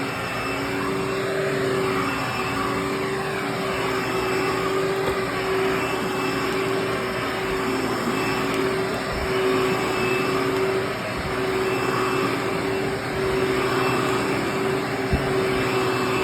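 Hoover WindTunnel Anniversary Bagless Twin Chamber (U5786-900) upright vacuum cleaner running while vacuuming the floor: a steady motor whine over rushing air, the level wavering slightly.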